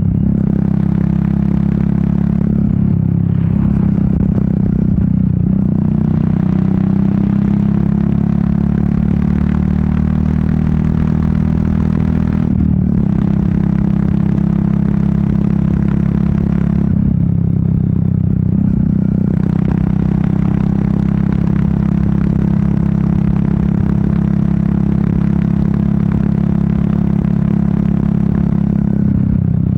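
Royal Enfield Meteor 350's single-cylinder engine and exhaust running steadily while riding, with wind noise over the microphone. The engine note falters briefly near the middle.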